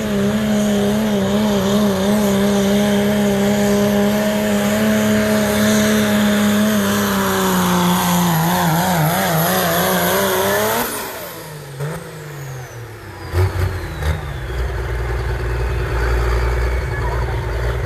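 A 5.9 diesel pickup at full throttle pulling the sled, its engine note steady, then wavering for the last few seconds of the pull before cutting off about eleven seconds in. A high whine then falls away slowly and the engine settles to a low rumble.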